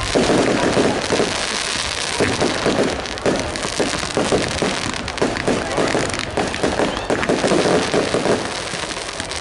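Fireworks display going off, a dense, loud crackle of many quick cracks and pops in rapid succession.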